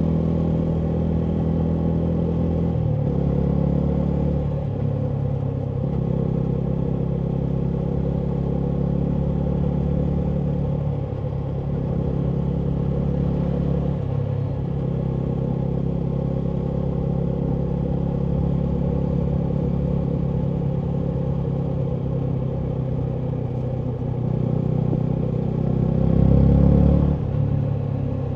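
Yamaha MT125's single-cylinder 125 cc four-stroke engine running through a full Akrapovic exhaust while riding. The engine note dips briefly a few times. Near the end it climbs in pitch and loudness, then drops off sharply.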